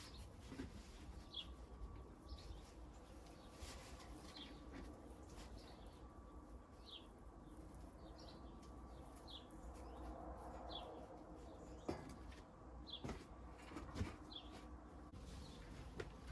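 A bird outside repeats a short, high call about once a second, faint against a low background rumble, with a few sharp clicks in the second half.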